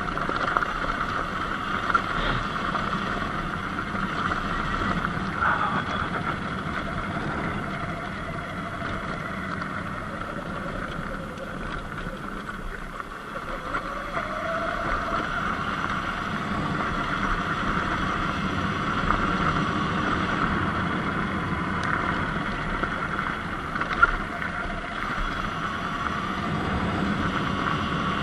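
Sur-Ron X Light Bee electric dirt bike on the move: a steady motor and drivetrain whine under wind rush and tyre noise, with a few short knocks. About halfway through, a faint tone dips in pitch and then climbs again as the bike slows and picks up speed.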